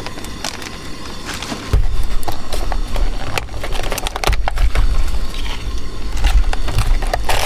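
Irregular knocks and clicks of a knife and ingredients being handled on a wooden cutting board, with wind rumbling on the microphone from about two seconds in.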